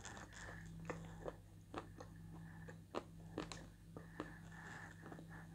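Close-up mouth sounds of a person chewing a creamy paste of Turkestan light chalk, with irregular soft wet clicks, about two or three a second, over a faint steady hum.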